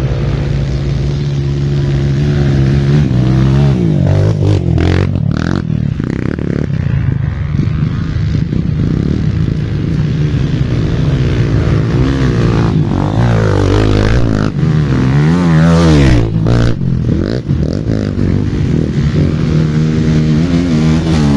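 Off-road dirt bike engine revving hard and easing off again and again, its pitch rising and falling, with some clattering knocks.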